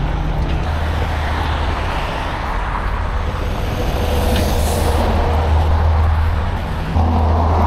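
Heavy tow truck's diesel engine running steadily, with a brief hiss of air about halfway through. The engine hum steps up a little near the end.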